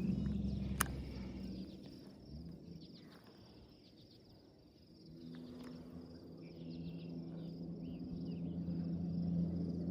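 Insects buzzing steadily, with a sharp click about a second in. A low, steady motor hum, most likely the boat's motor, comes in around halfway and grows louder toward the end.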